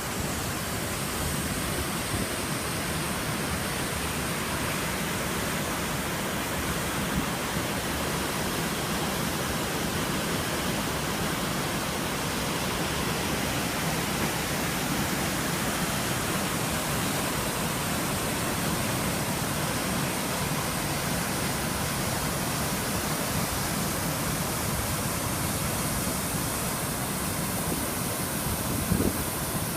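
A large waterfall's steady, even rush of falling water, unchanging throughout. A few low rumbles come in near the end.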